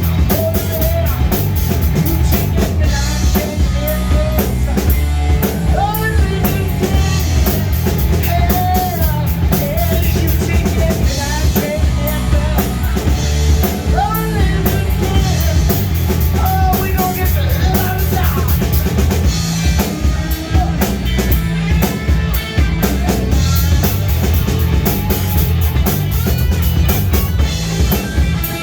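A rock band playing live, with a steady drum kit and bass under a lead line of bending, sliding notes and little or no singing.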